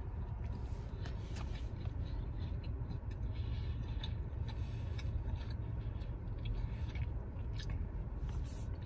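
A man chewing a mouthful of chicken sandwich, with scattered soft mouth clicks, over a steady low rumble inside a car.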